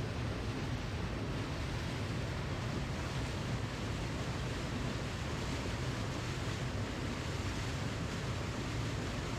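Waterfall rushing in a steady, unbroken roar of falling water, heaviest in the low end.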